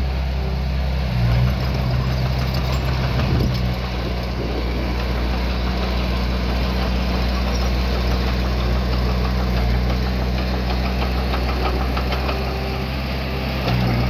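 Diesel engine of a small bulldozer or mini dump truck running steadily at low revs, with a short rise in engine note about a second in and again near the end.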